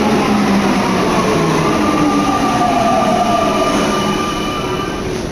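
MP89CA rubber-tyred metro train running through the station, its motor whine slowly falling in pitch as it slows down.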